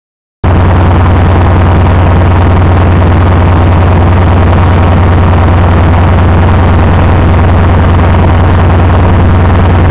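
The diesel engine of a MÁV M41 locomotive running steadily and loudly, with a deep steady hum under a rough mechanical clatter. It cuts in abruptly about half a second in.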